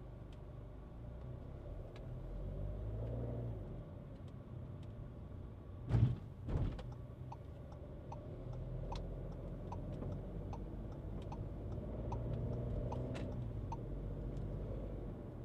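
Skoda Kushaq heard from inside the cabin while driving: engine and road noise swelling twice as it accelerates, with two heavy thumps about six seconds in, like the tyres hitting a bump or joint. From about eight seconds on, a regular light ticking runs under the drive.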